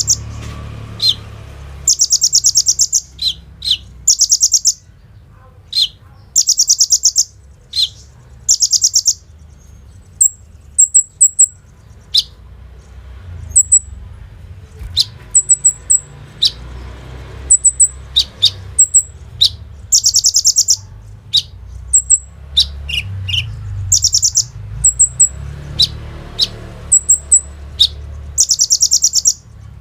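Kolibri ninja sunbird singing: rapid, rattling high trills about a second long, repeated every second or two, mixed with short sharp chips and quick runs of three high ticks. It has the machine-gun-like trilling that keepers call "bren" and "AK-47".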